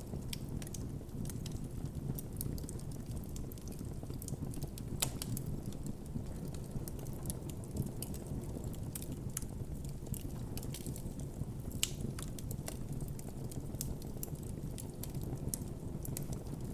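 Campfire burning with a steady low rumble and irregular crackles and pops, a few sharper pops standing out about five and twelve seconds in.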